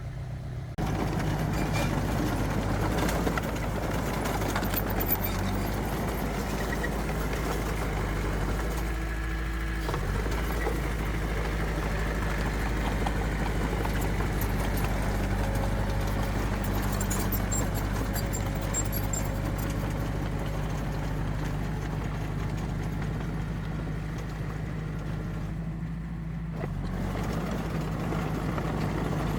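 Diesel engine of a heavy earthmoving machine running steadily with an even low drone, which comes in abruptly about a second in.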